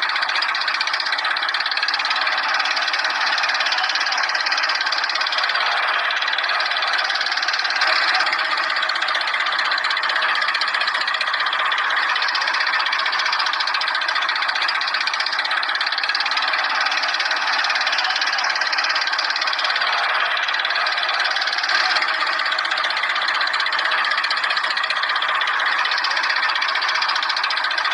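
Small motor of a miniature toy tractor running steadily.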